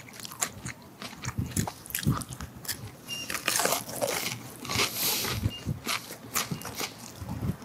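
Close-miked chewing of a crisp breaded, deep-fried pork cutlet dipped in sauce: crunching with many small wet mouth clicks, and a longer crunchy stretch around the middle.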